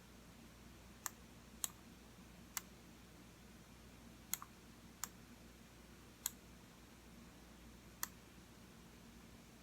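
Computer mouse button clicking: seven single sharp clicks at uneven intervals of about half a second to two seconds, over faint steady room hum.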